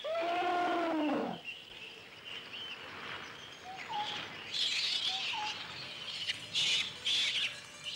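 Forest birds calling: one long arching call in the first second or so, then scattered short chirps, with a few harsh rasping calls in the second half.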